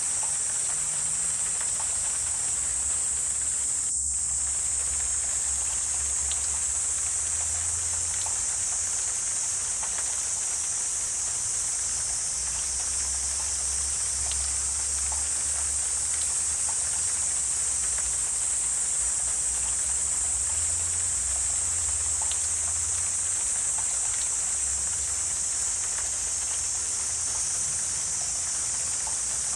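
Wetland insect chorus: a steady high-pitched drone without a break, with faint scattered ticks and a low rumble underneath.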